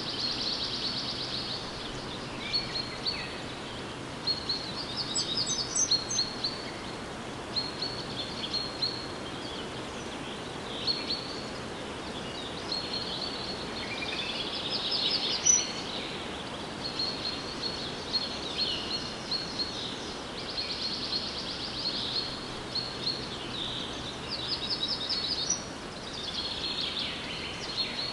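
Forest ambience with birds singing: short, fast trilling and chirping phrases, one every second or two, over a steady background hiss.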